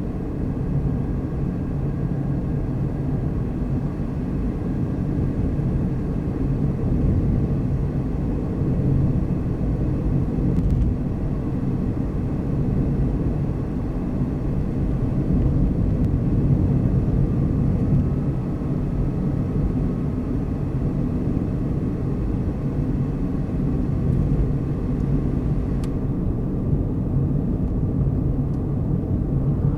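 Vehicle driving along a road: a steady low rumble of engine and tyres.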